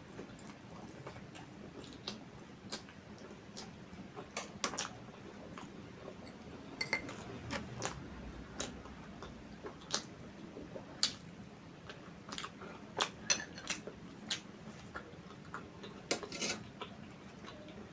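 Close-miked eating sounds: scattered sharp clicks and taps of cutlery or fingers against a plate, with soft mouth noises between them.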